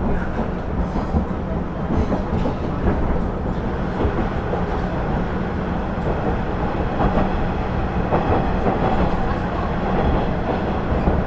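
Inside a KiHa 110-series (KiHa 112) diesel railcar under way: a steady diesel engine hum under wheel-on-rail rumble, with occasional clicks from the rails.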